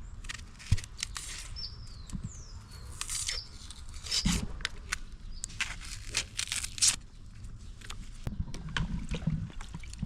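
A few brief bird chirps over scattered short clicks and scrapes.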